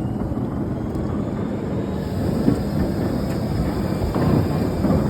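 Electric rack-railway train moving off down the mountain: a steady low rumble with a faint whine slowly rising in pitch.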